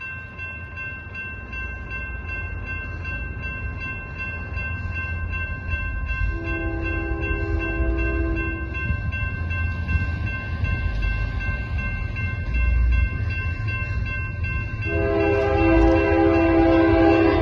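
Union Pacific 6011's diesel locomotive approaching, its rumble growing louder, sounding its air horn in two long blasts, one about six seconds in and another starting near the end. A steady high-pitched tone runs underneath.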